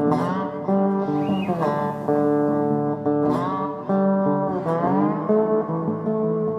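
Guitar music: held, ringing chords with pitch slides downward several times.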